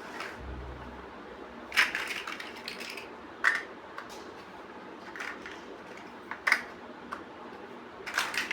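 Plastic building bricks clicking and snapping together by hand: separate sharp clicks every second or two, some with a short rattle after them.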